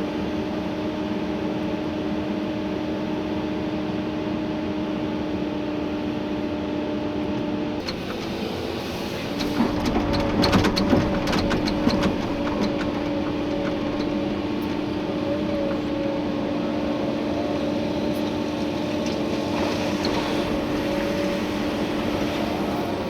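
Komatsu PC290-11 excavator's diesel engine and hydraulics running with a steady hum, heard from inside the cab. About ten seconds in, a short spell of clattering knocks as the bucket works the gravel, then the steady running again.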